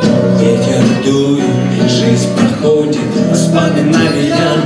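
A live acoustic band plays an instrumental passage between verses: strummed acoustic guitar chords with hand-drum percussion keeping the beat.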